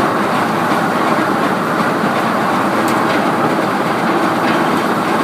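Heavy sawmill machinery running steadily, a loud even rattling rumble with a faint steady hum under it and a couple of light ticks.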